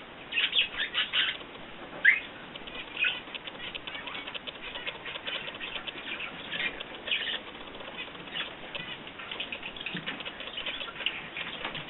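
Small cage birds chirping in quick clusters of short notes, with wings fluttering; one louder rising chirp about two seconds in.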